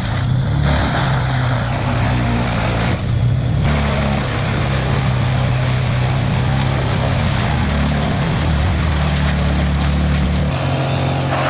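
A large wood chipper's diesel engine running steadily, its pitch shifting a few times.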